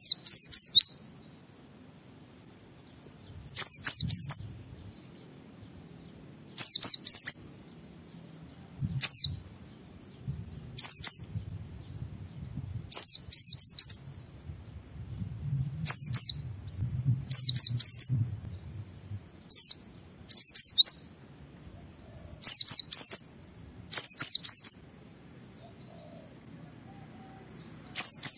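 White-eye (pleci) singing in short, high, rapid twittering phrases about every two seconds: the full 'ngalas' song used as a lure to set other pleci singing.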